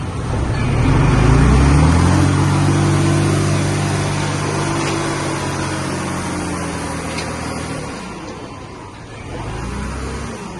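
Engine of a heavy earthmoving vehicle revving up during the first two seconds, holding a steady pitch, then dropping away about eight seconds in, with a short second rise near the end.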